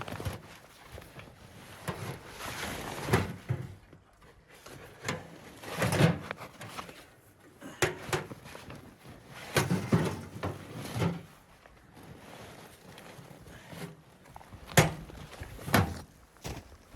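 Irregular knocks, thuds and rustling of things being handled. They come in clusters a second or two apart, with a sharp knock near the end.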